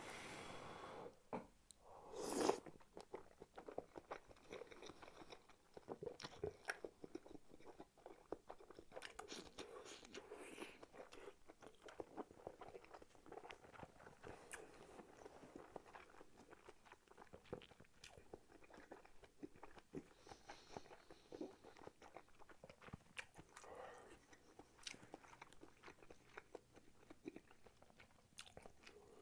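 Close-up eating sounds of spicy tteokbokki: biting and chewing with many small wet mouth clicks and crunches, faint overall, with one louder burst about two seconds in.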